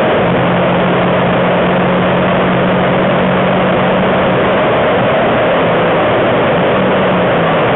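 Renault Twingo RS's 1.6-litre four-cylinder heard from inside the cabin, running hard at a steady high pitch at full throttle, with heavy wind and wet-road noise. About four and a half seconds in the steady engine note breaks off as the car lifts and brakes hard, and the engine's pitch shifts again near the end.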